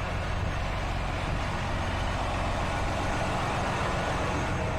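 Diesel semi-truck engine idling: a steady, even low hum with a faint hiss above it.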